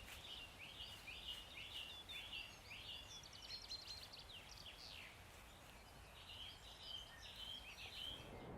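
Faint songbirds singing in woodland: a rapid run of short, high chirping notes that thins out briefly in the middle and picks up again toward the end.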